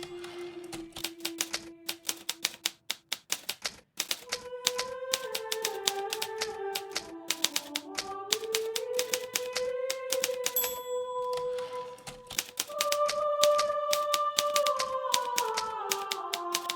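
Hermes Baby portable typewriter, its keys clacking in quick, irregular runs of typing. Under it runs soft background music of slow, held notes.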